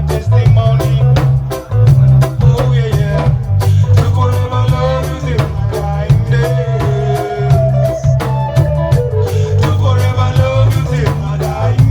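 A reggae band playing a lovers rock song, with a heavy bass line, a steady drum beat and a sung lead vocal.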